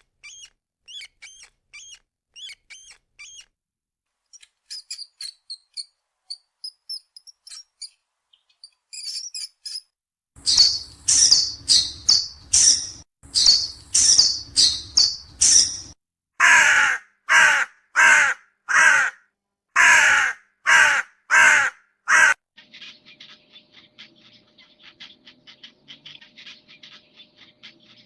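Birds calling: thin high chirps at first, then, from about ten seconds in, a long run of loud harsh calls repeated about twice a second. After that come fainter quick chirping and a low steady hum.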